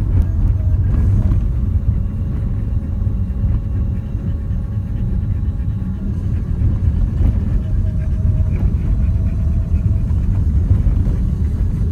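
Renault Duster 4x4 on the move off-road: a steady, loud low rumble of engine and tyres.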